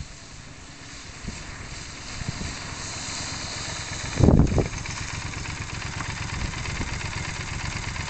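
Yamaha TDM 900 motorcycle's parallel-twin engine running while riding, the engine and wind noise building over the first few seconds. A brief loud low rumble about four seconds in, and another right at the end.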